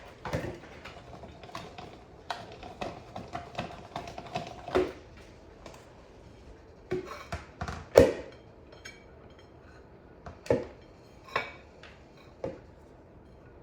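Kitchen handling sounds: scattered light clicks and knocks of utensils and dishes as shredded cheese is moved into a bowl, with the loudest knock about eight seconds in.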